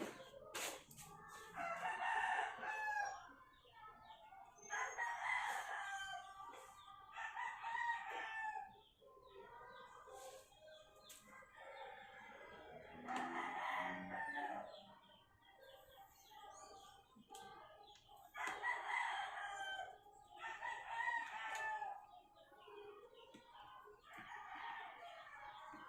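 Roosters crowing, about seven crows one after another, each lasting a second or two.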